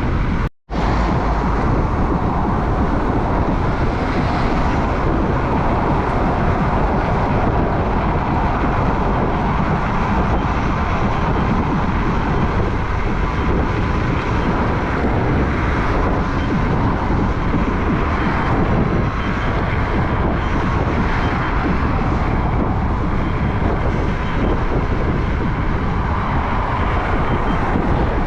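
Wind buffeting the microphone while riding an electric unicycle: a dense, steady rumble, with a faint steady whine underneath. The sound cuts out briefly about half a second in.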